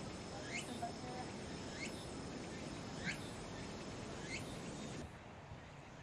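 A bird repeating a short falling chirp four times, about once every second and a quarter, over a steady outdoor background hiss. The background hiss drops abruptly about five seconds in.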